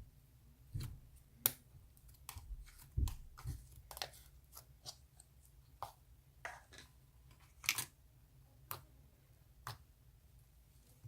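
Slime being pressed and handled, giving irregular sharp sticky clicks and pops, about one or two a second.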